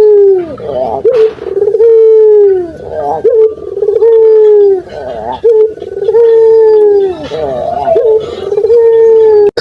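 A puter (ringneck dove) cooing loudly and repeatedly, about four phrases. Each is a short wavering coo followed by a long held coo that slides down in pitch at its end.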